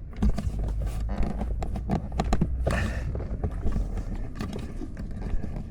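Scattered light plastic taps and rustling as a wiring harness plug is pushed into the blower motor connector of a 2014 Mercedes-Benz ML350. The plug seats without a clear click. A low steady hum runs underneath.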